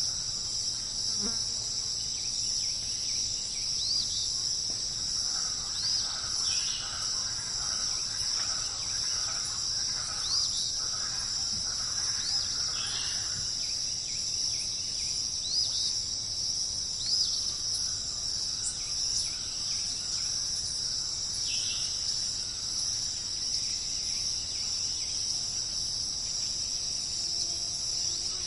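Steady, high-pitched chorus of insects, with a bird giving short upswept chirps every few seconds through the first two-thirds.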